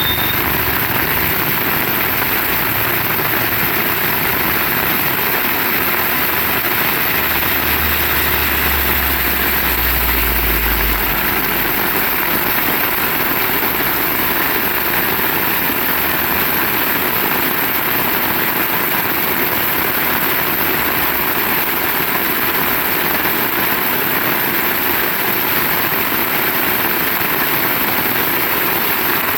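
Heavy rain falling steadily, an even, dense hiss. A low rumble comes in for a few seconds about eight seconds in.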